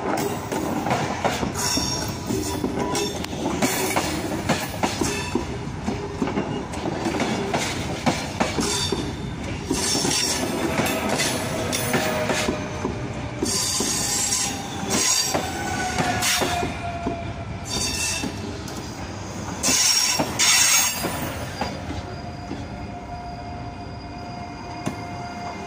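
An SNCF Z 24500 double-deck electric multiple unit running into the station past the platform, its wheels clacking over the rail joints as it slows to arrive. Thin squealing tones slide in pitch through the middle. A louder burst of noise comes about 20 seconds in, and steady high squealing tones follow near the end.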